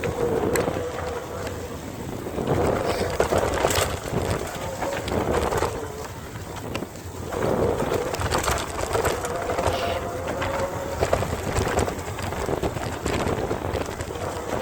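Electric bike riding over rough ground: a faint motor whine that wavers in pitch, over tyre and wind rumble with frequent knocks from bumps.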